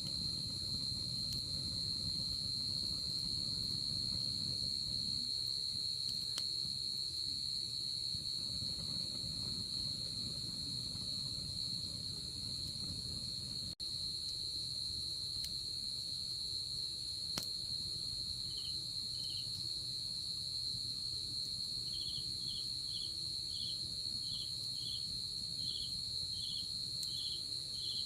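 Night insects: a chorus of crickets trilling steadily at a high pitch, with a second insect joining in the second half with regular chirps about twice a second. Underneath, a campfire burns with a low rumble and a few faint crackles.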